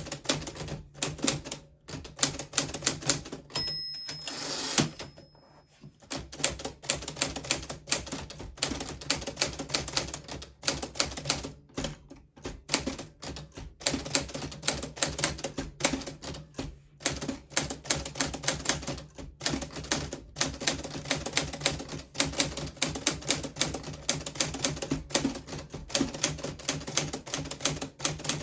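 Typing on a 1940s Smith Corona Silent manual typewriter: quick, irregular keystrokes. About four seconds in, a single bell ding marks the end of the line. The carriage is returned and there is a brief pause before the keystrokes carry on.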